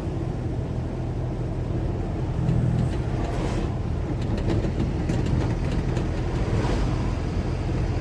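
A moving car's engine and road noise: a steady low rumble that swells briefly about two and a half seconds in.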